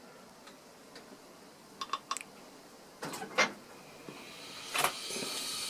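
The burner of a 1930s Bing twin-cylinder toy steam engine being lit. A few small clicks about two seconds in, then a short rasp about three seconds in, then a faint hiss that builds over the last second or so.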